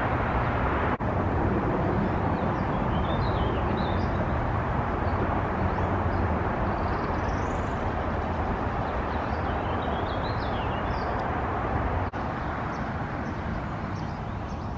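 A songbird singing short warbled phrases twice, with a thin rising call between, over a steady low background roar.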